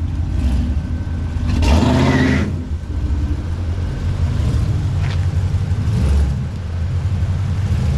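Car engine running with a deep steady drone, swelling briefly about two seconds in.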